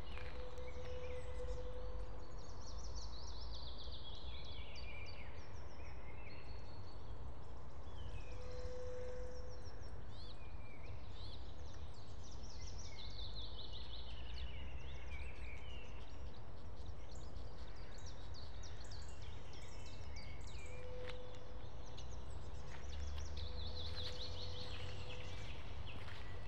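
Songbirds singing, with a trilled phrase that falls in pitch repeated about every ten seconds, over a steady low rumble.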